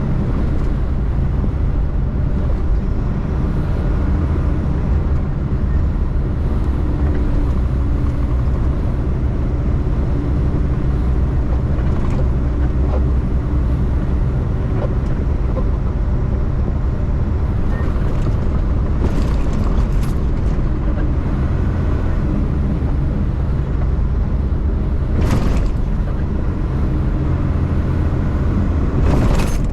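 Semi truck's diesel engine running steadily under way, with road rumble, heard from inside the cab. A few short hisses come in the second half.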